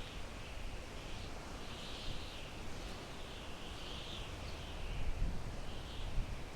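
Wind blowing through pine trees: a steady rushing hiss that swells and eases every second or two, over a low rumble.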